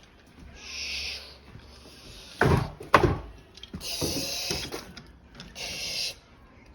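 Toys being handled: two sharp knocks about half a second apart, the loudest sounds, among several short bursts of hissing.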